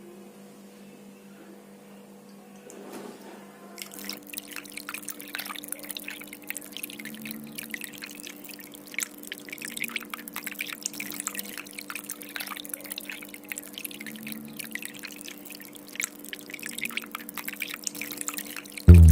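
Water of a small cement tabletop waterfall fountain trickling and dripping in quick, irregular splashes, starting about four seconds in, over a steady low hum.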